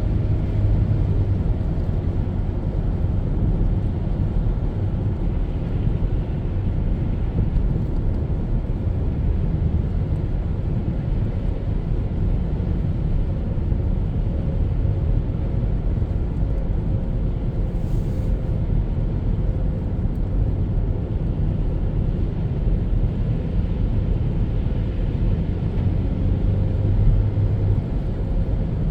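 Car driving: a steady low rumble of engine and road noise heard from inside the cabin.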